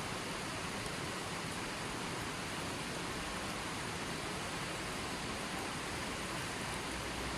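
Running water flowing steadily: an even, unbroken rushing hiss with no changes or separate splashes.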